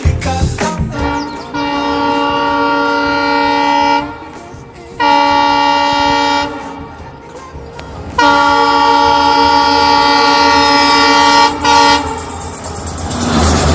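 Locomotive air horn sounding three steady chord blasts: one of about two and a half seconds, a shorter one, then a long one of about four seconds, over the low rumble of the moving train, which grows louder near the end.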